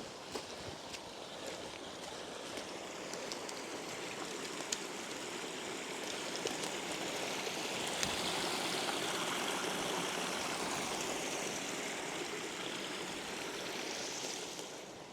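Running water rushing steadily, growing louder through the middle and easing off near the end, with a few light clicks in the first seconds.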